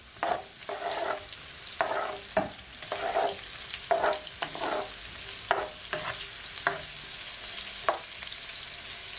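Onion rings, carrot strips and pimento seeds sizzling steadily in a little hot oil in a nonstick frying pan, while a spatula stirs them, scraping and tapping the pan about a dozen times at an uneven pace.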